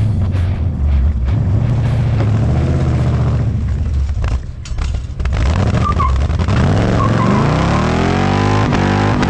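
Tow truck engine running under way. It drops in level briefly about halfway through, then climbs steadily in pitch as it accelerates.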